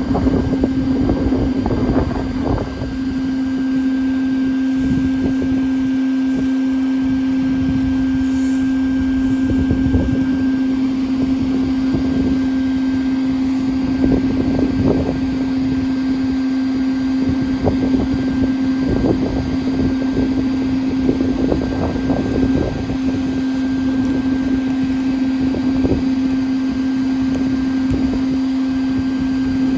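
Bee vacuum motor running with a steady hum, with irregular knocks and rattles throughout as bees and comb are drawn up the hose during a hive extraction.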